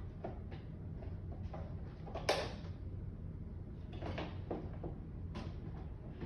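Scattered light clicks and knocks, with one louder crackling knock about two seconds in, over a low steady hum.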